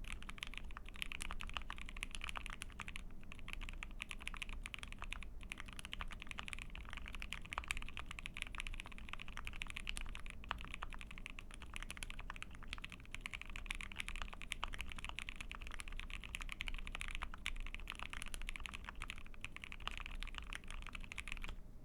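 Fast continuous typing on a mechanical keyboard with lubed Gateron 8008 Inks linear switches on a POM plate, a dense stream of keystroke clacks with brief pauses. It stops right at the end.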